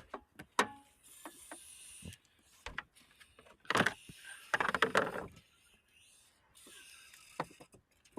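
Parts of a car being worked by hand: a series of sharp clicks and knocks, with two louder scraping noises about four and five seconds in.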